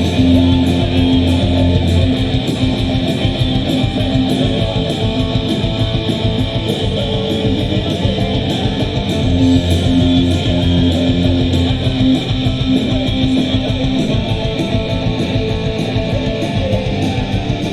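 Punk rock band playing live, an instrumental passage without vocals: electric guitars over steady drum hits.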